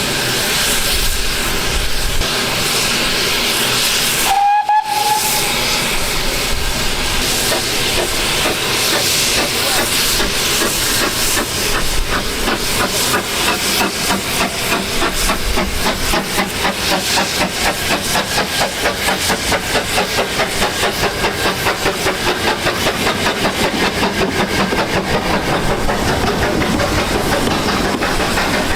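Narrow-gauge steam locomotive hissing steam, with a brief break about four seconds in, then working away with its exhaust beats. The beats grow steadily quicker, to about four a second near the end, as the train gathers speed.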